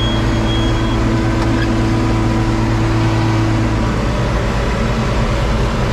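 John Deere 4250 tractor's six-cylinder diesel running steadily under load, pulling a round baler as it bales hay, with a brief high tone near the start. The engine note shifts slightly about four seconds in.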